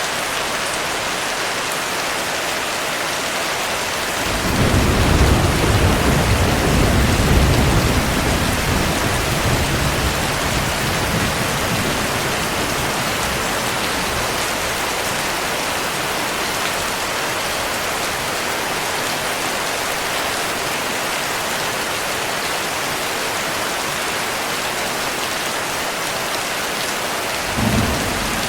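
Steady heavy rain. About four seconds in, a rumble of thunder swells, peaks for a few seconds and slowly dies away; a short low rumble comes near the end.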